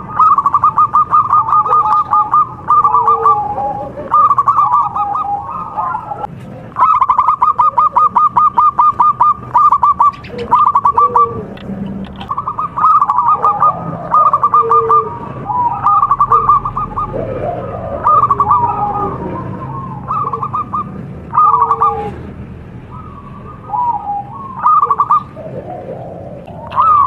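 Several zebra doves (perkutut) cooing, their rapid staccato trills and coos overlapping in runs of a few seconds with short pauses between.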